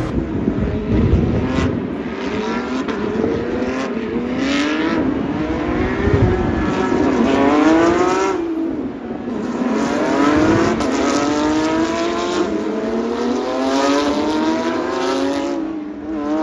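Porsche sports car engine accelerating hard. Its pitch climbs and falls back several times, as at gear changes, with a few sharp pops along the way.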